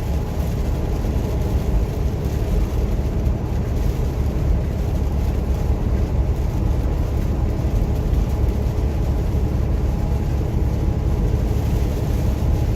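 Steady engine and tyre noise inside a moving truck's cab on a rain-wet highway, a constant low rumble with no changes.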